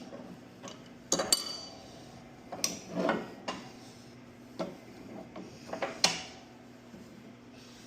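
Stainless steel exhaust tubing and a straight edge being handled and set down on a workbench: a series of about eight clanks and clinks, a couple of them with a brief metallic ring, over a faint steady hum.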